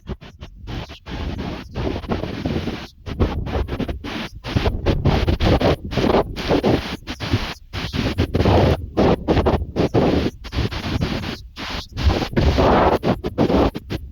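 Storm wind buffeting the microphone in heavy gusts, the sound cutting out briefly many times.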